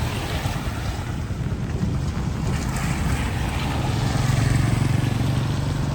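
A motor vehicle engine running close by, its low hum growing strongest a little past the middle, over a steady rush of wind noise.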